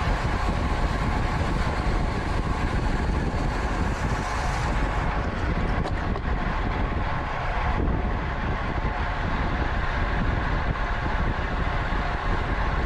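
Steady rush of wind over the microphone, with road and tyre noise from a racing bicycle ridden at speed.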